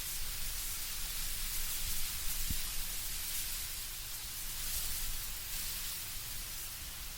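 Wind blowing through trees, a steady hiss of rustling leaves that swells and eases gently, with a faint low rumble underneath.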